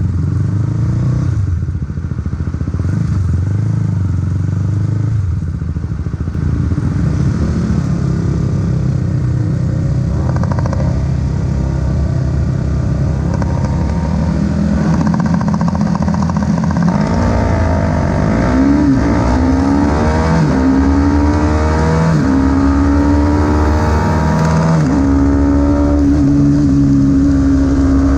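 Supersport 300 race motorcycle engine, low and uneven at first, then accelerating hard through several gears: the pitch rises and drops back at each upshift, ending on a high steady note.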